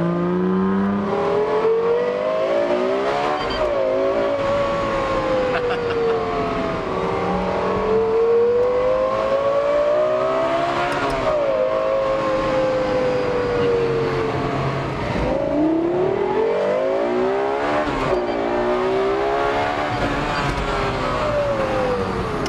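Lexus LFA's V10 engine revving hard from inside the cabin, its pitch climbing to a peak and then falling away three or four times as the car accelerates and slows.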